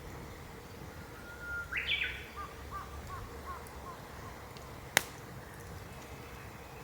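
A bird calls about a second and a half in: a held note that jumps higher, then a run of short falling notes. About five seconds in, burning firewood gives one sharp pop, over a low steady rumble.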